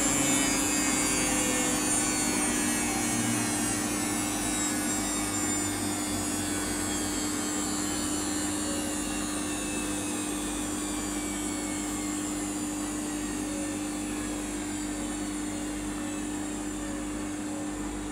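Samsung washing machine spinning down: the motor's whine falls slowly in pitch and the sound gradually fades, over a steady low hum.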